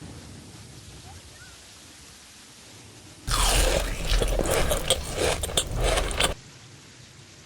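Close-miked crunching and chewing of food: after a few seconds of faint hiss, a loud, dense run of crackling bites starts suddenly and lasts about three seconds, then cuts off abruptly.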